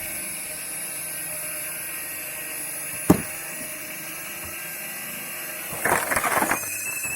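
Homemade screw log splitter, its threaded cone driven by a 350 W washing-machine motor through a poly-V belt and flywheel, running with a steady whine as the cone bores into a log. A single sharp crack of the wood comes about three seconds in, and a burst of crackling and splintering comes near the end.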